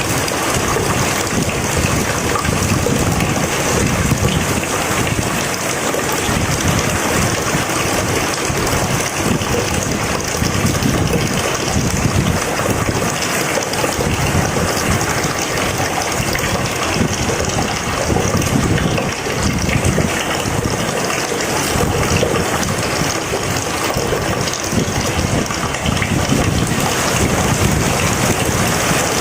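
Heavy rain falling steadily, a dense, even hiss with a shifting low rumble underneath.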